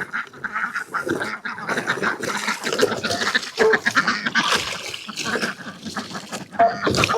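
A flock of ducks quacking, many short calls overlapping one another.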